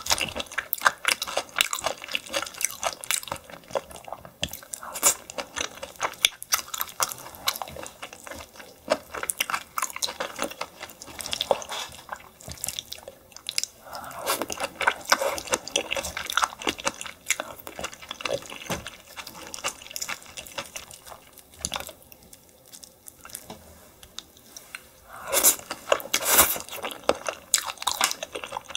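Close-miked eating of steamed yellow stingray with green onion: wet clicking and smacking mouth sounds as it is chewed. There are louder crunchy bites about halfway through and again near the end.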